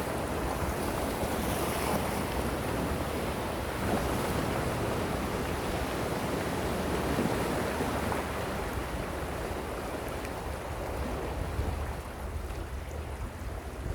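Gentle ocean waves washing ashore: a steady surf hiss that swells and eases slowly, a little softer near the end.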